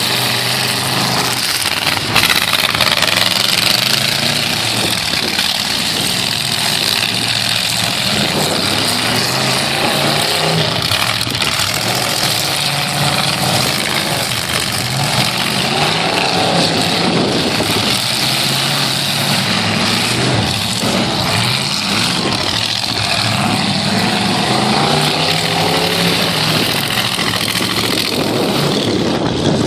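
Half-ton pickup truck engines in a demolition derby, running and revving up and down, with a loud bang about two seconds in.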